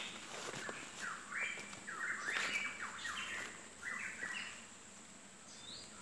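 Pitohui calling: a quick series of short whistled notes, each sliding up or down in pitch, lasting a few seconds before a single higher note near the end.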